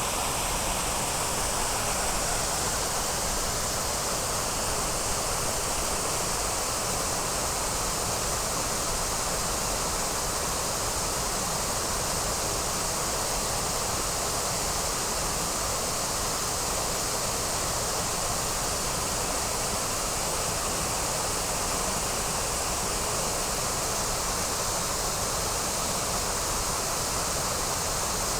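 Steady rush of falling water from a waterfall, even and unbroken throughout.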